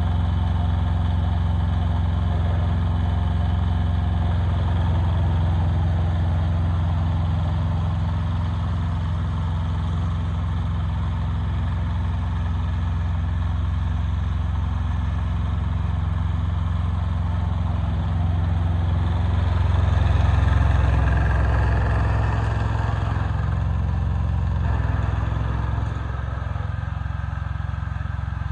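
Yanmar YM146 compact tractor's diesel engine running steadily. It gets louder for a few seconds past the middle, then drops back a little before the end.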